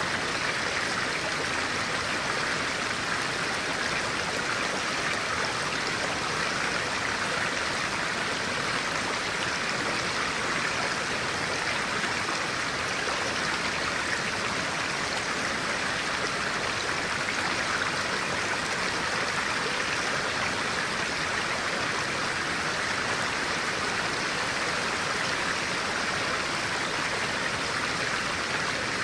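Stream of clear water flowing steadily over rocks, a continuous even rushing.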